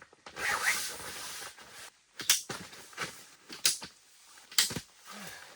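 Folding OneTigris camp cot being assembled: fabric rustles for about a second and a half, then come several sharp clicks and knocks as the frame parts are fitted together.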